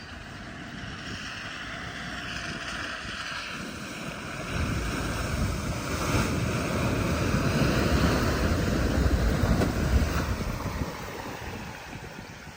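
Vehicle ploughing through deep floodwater, water rushing and splashing around it, with wind buffeting the microphone. The rush builds about four seconds in, is loudest just before ten seconds, then eases off.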